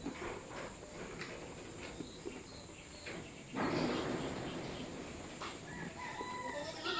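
A rooster crowing near the end, one drawn-out call, among scattered farmyard noises, with a louder rustling burst about halfway through.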